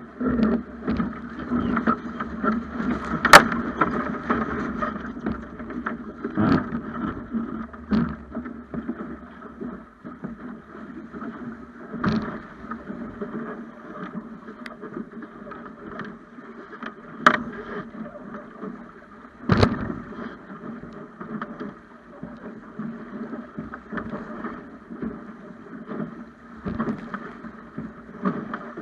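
A Snipe sailing dinghy under way: water rushing and splashing along the hull. A few sharp knocks stand out, the loudest about three seconds in.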